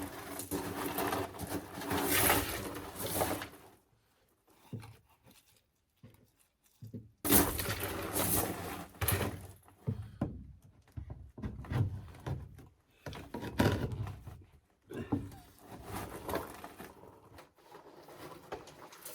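Irregular knocking and scraping from work on plastic drain pipe: pipe being cut, handled and fitted, in stretches of a few seconds with short pauses between.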